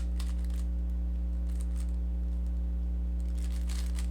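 Rubik's cube being turned in quick runs of faint plastic clicks and rattles, at the very start and again in the last second, over a steady low electrical hum.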